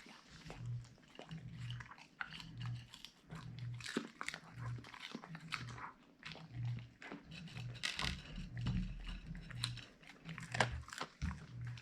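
Siberian husky chewing grilled mackerel, with repeated crisp crunches and biting sounds in a rhythmic chewing pattern.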